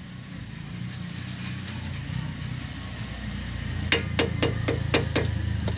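Seven sharp knocks in quick succession, about four a second, starting about four seconds in, over a low steady hum.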